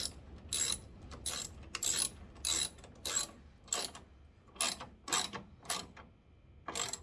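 Hand ratchet clicking as it drives a screw back in, in a run of short rasping back-swings about two a second with a brief pause near the end.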